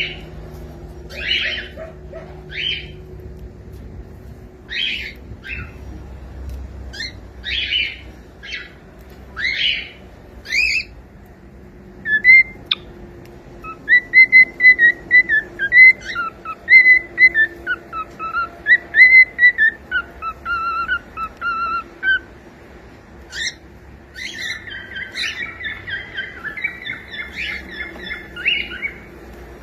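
Cockatiel giving short chirping calls about once a second, then whistling a tune of clear rising and falling notes for about ten seconds, ending in quick warbling chatter.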